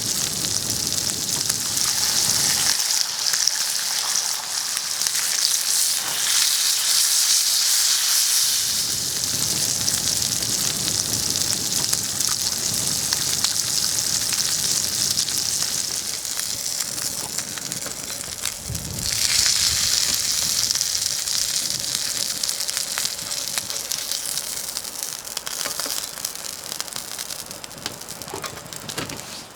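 Beef burgers sizzling on a cast iron griddle over a campfire: a steady frying hiss that grows stronger for a few seconds at a time and then eases.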